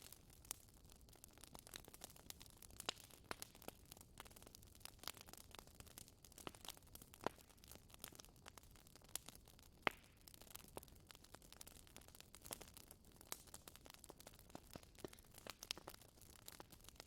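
Wood fire in a fireplace crackling: irregular small pops and snaps over a faint hiss, with one sharper pop about ten seconds in.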